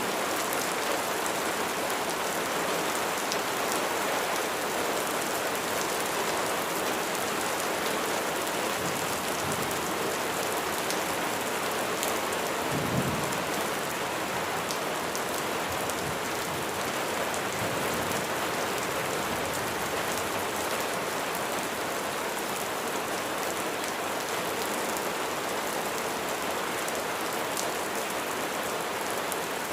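Steady rain falling. A brief low rumble comes about halfway through.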